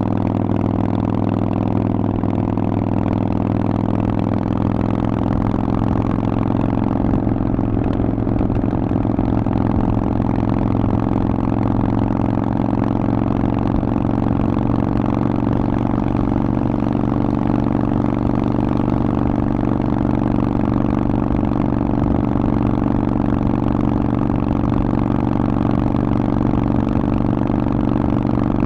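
Harley-Davidson Forty-Eight's air-cooled V-twin running steadily through a Vance & Hines aftermarket exhaust.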